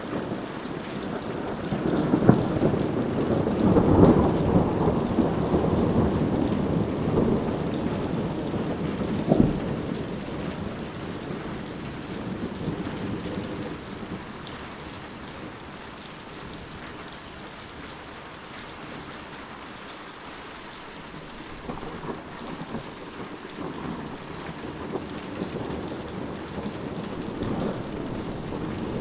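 Steady rain with rolling thunder: a long low rumble swells over the first several seconds, with a sharper crack about nine seconds in, then dies down before building again near the end.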